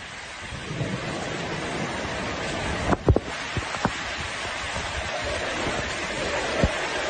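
Thunderstorm with steady heavy rain and wind noise, broken by sharp knocks about three seconds in, a couple more just after and one near the end.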